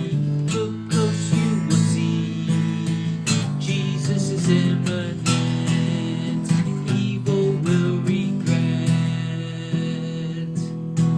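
Strummed acoustic guitar playing an instrumental passage, with regular strokes.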